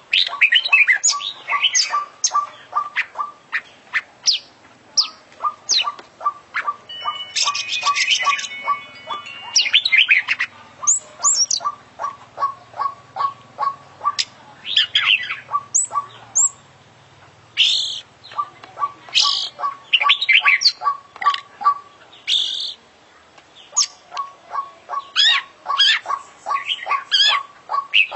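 Oriental magpie-robin (kacer) singing a long, varied song. Rapid runs of short ticking notes alternate with sweeping whistles, chirps and a buzzy trill. It is the 'full isian' style, packed with mimicked calls of other birds.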